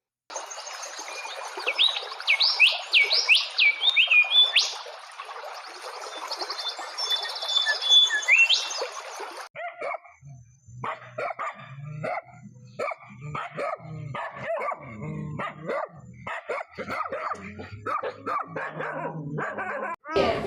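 Bird calls, quick rising and falling whistles over a steady hiss, for about nine seconds; then a sudden switch to a dog barking in short, rapid, irregular volleys.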